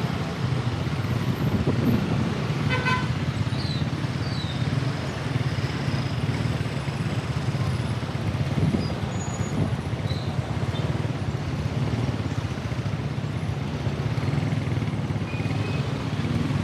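Steady road traffic noise heard from a moving bike, with a brief vehicle horn toot about three seconds in.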